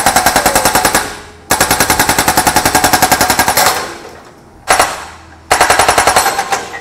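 Hydraulic breaker on a Kubota U50-5S mini excavator hammering an old engine block in runs of rapid blows, about ten a second. There are four runs, the longest about two seconds, with short pauses between.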